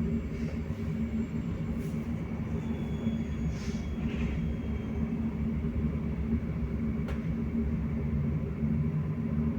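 Belkommunmash BKM-43300D trolleybus heard from inside while riding: a steady low rumble with a faint high whine in the first half and a few light ticks and rattles.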